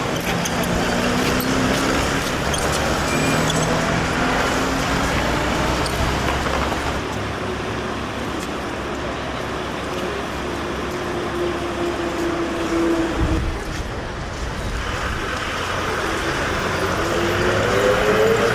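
Street traffic with the whine of electric traction motors, rising in pitch several times as a vehicle accelerates. A brief low rumble comes about two-thirds of the way through.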